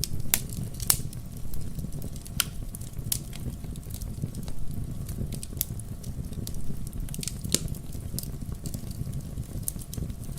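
Wood logs burning in a fireplace: a steady low rumble of the fire with irregular sharp crackles and pops, a few louder ones near the start and past the middle.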